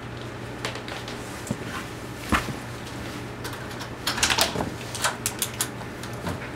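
Clicks and knocks of objects being handled, with a busy cluster about four seconds in and several quick sharp clicks just after, over a steady low hum.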